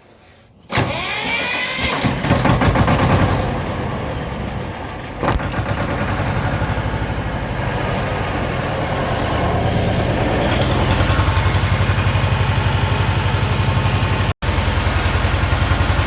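Belarus 250AS tractor's diesel engine being started: the electric starter cranks it with the decompression lever open, about five seconds in compression is engaged and the engine catches and runs. From about ten seconds in it settles into a steady, even rhythmic idle with the hand throttle pulled back, with a brief cut-out in the sound near the end.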